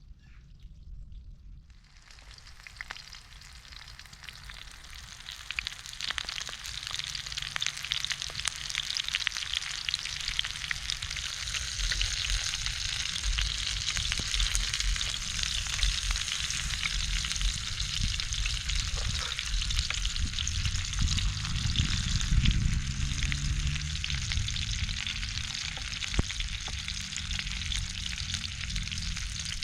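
Food frying in a hot pan, sizzling and crackling. The sizzle builds over the first ten seconds or so, then holds steady over a low rumble.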